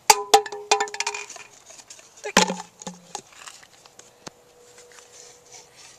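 Quick rattling knocks of a container being handled to catch bees, with a brief ringing tone, then one heavier knock about two and a half seconds in. A faint steady hum follows.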